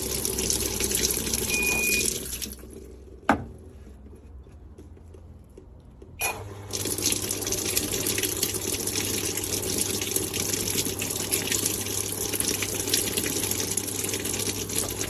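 Water gushing into a Panasonic washing machine's tub through its water inlet valve. The flow drops away after about two and a half seconds, there is a sharp click a second later, and the flow starts again with a steady low hum under it.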